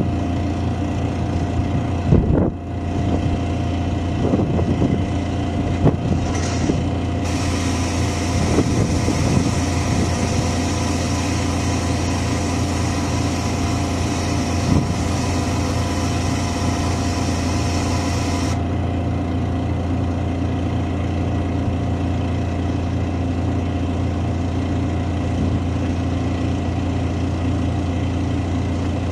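A diesel engine idling steadily, with a few knocks in the first seconds and another about halfway. A loud steady hiss joins about seven seconds in and cuts off suddenly some eleven seconds later.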